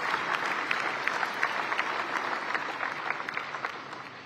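Audience applause: many hands clapping together, slowly dying away near the end.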